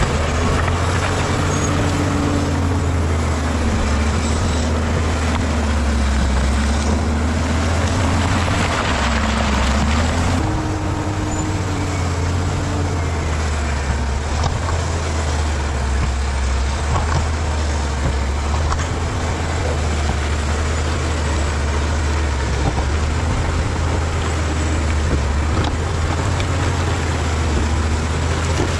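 Bulldozer's diesel engine running under load, a steady low rumble whose pitch dips and rises as the load changes, shifting about ten seconds in.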